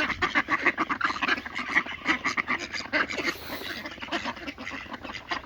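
A flock of domestic ducks quacking, with many short quacks overlapping in quick succession.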